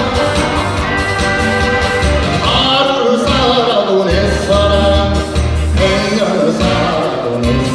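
A trot song sung live over backing music with a steady bass line, the voice held on long, wavering notes.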